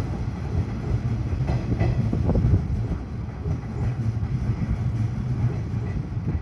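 Hanshin Railway electric trains on elevated track: a steady low rumble of steel wheels on rail with irregular clacks over the rail joints, a little louder about two seconds in.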